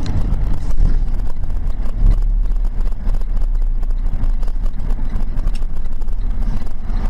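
Steady low road and engine rumble inside a moving vehicle's cab.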